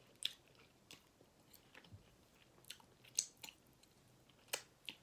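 A person chewing turkey chop, heard faintly as about eight short, irregular wet mouth clicks and smacks.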